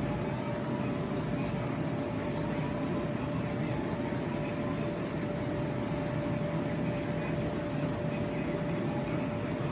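Steady low noise with a constant mid-pitched hum running through it.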